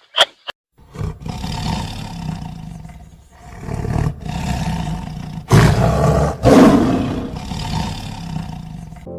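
Lion roaring and growling in a series of low, rough swells, the loudest two about five and a half and six and a half seconds in, after two short sharp sounds at the very start.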